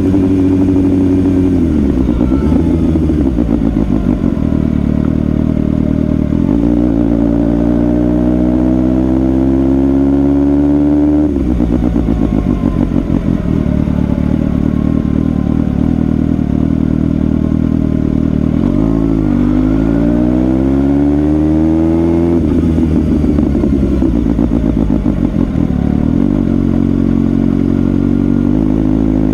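Suzuki GSX-S750's inline-four engine under way, its revs climbing in two long pulls and then falling back, with an abrupt drop in pitch after the first pull.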